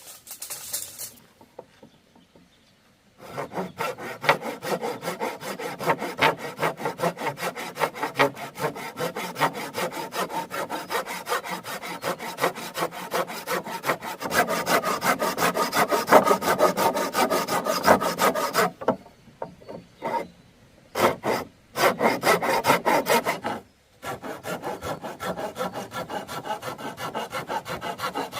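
Hand saw cutting bamboo with quick, even back-and-forth strokes. The sawing starts about three seconds in, stops for a moment about two-thirds of the way through, then resumes in short spells.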